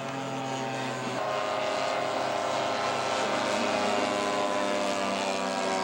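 Engines of several radio-control scale model airplanes flying at once, a steady drone of overlapping pitches, with one engine changing pitch about a second in.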